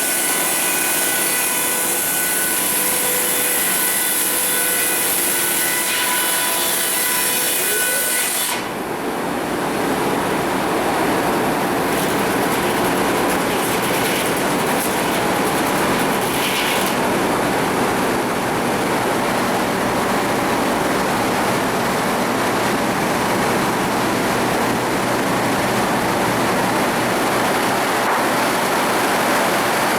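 Sawmill saw and machinery running loudly: for the first eight seconds or so a saw cutting wood with a whine of several steady tones, then a sudden change to an even, steady rushing noise.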